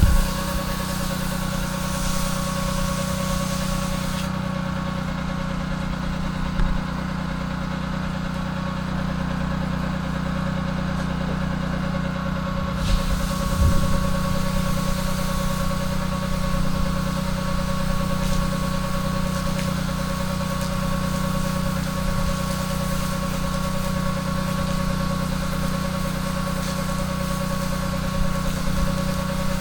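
Pressure-washing rig's engine running at a steady speed, a constant drone with a fixed hum. A high hiss above it drops away about four seconds in and returns about nine seconds later.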